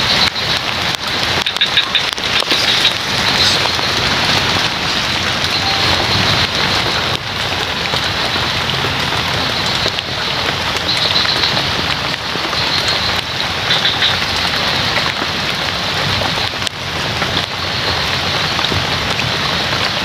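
Steady heavy rain falling on forest foliage, a dense even hiss with no letup. A high-pitched hum above it swells and fades every few seconds.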